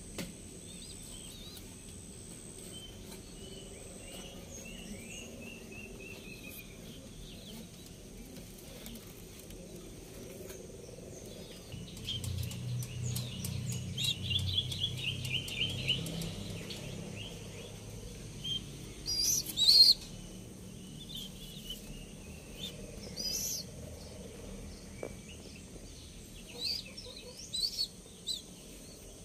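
Birds chirping: a falling series of notes, then a fast trill in the middle, over a faint steady high whine. A low hum sits under the trill, and a couple of sharp rustling clicks come about two-thirds of the way through.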